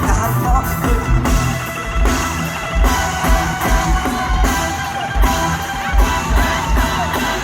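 Band music with a steady kick-drum beat, bass and guitar.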